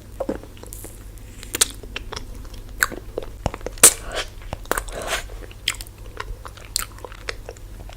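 Close-miked biting and chewing of a chocolate-coated ice cream bar, with irregular sharp crunches and crackles as the shell breaks.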